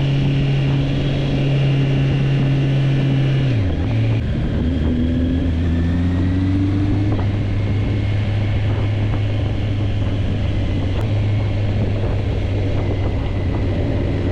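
Motorcycle engine running steadily under way. About four seconds in, its pitch drops sharply and then settles at a lower steady note.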